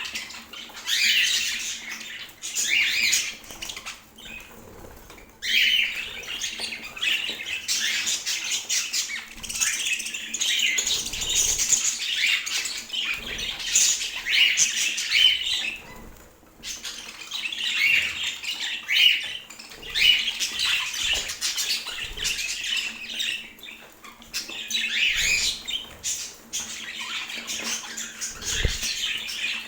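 Budgerigar chattering and chirping in rapid, high-pitched bouts, with short pauses in between.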